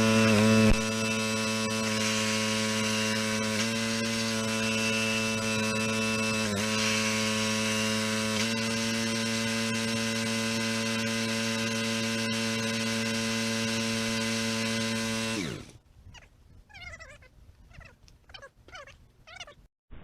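Log splitter's small motor running steadily with slight dips under load, then shut off about three-quarters of the way through, its pitch falling as it winds down. Faint, short chirping calls follow.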